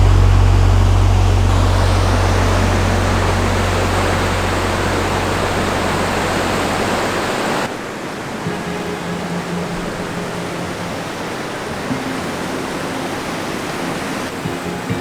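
Waterfall water rushing in a steady, even roar. Low sustained background music tones sit under it for the first half, and the sound changes abruptly about halfway through.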